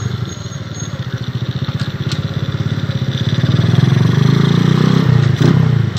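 Motorcycle engine running under way, a fast even exhaust pulse that grows louder over the first few seconds, with a brief dip a little after five seconds in.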